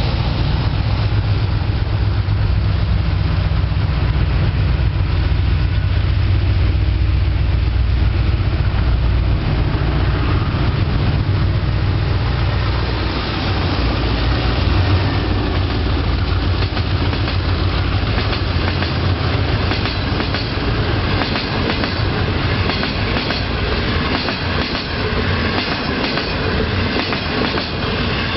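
A passenger train hauled by a pair of DF11G diesel-electric locomotives passes close by. The locomotives' engines make a heavy low drone in the first half, which fades as the coaches follow. The coaches' wheels then clatter rhythmically over the rail joints.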